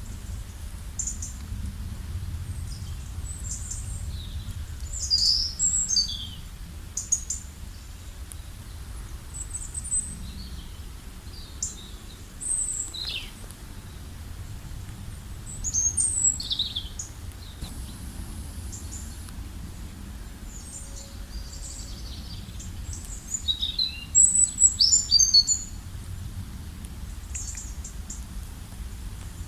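Several songbirds singing and chirping, with short high, quick notes, some sliding downward, coming in clusters. The busiest flurries are about five seconds in, around the middle, and shortly before the end.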